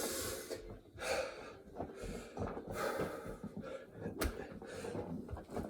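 A man breathing hard and gasping from exertion in the middle of a set of burpees, a heavy breath about once a second, with one sharp knock about four seconds in.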